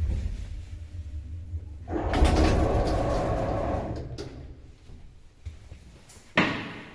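Passenger elevator arriving at a floor: the low hum of the car's travel dies away, then the automatic sliding doors open with a rattling rumble for about two seconds. A click follows, and a sharp bang comes near the end.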